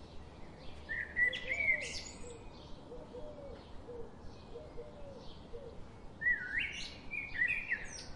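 Birds chirping over a steady background hiss: a cluster of quick, sliding chirps about a second in and another from about six seconds in, with a run of fainter, lower short calls between them.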